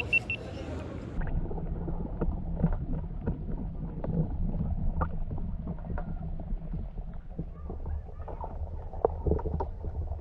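Muffled underwater sound from a camera held beneath the spring water: a low rumble with scattered clicks and knocks. About a second in, the higher sounds cut off suddenly as the microphone goes under the surface.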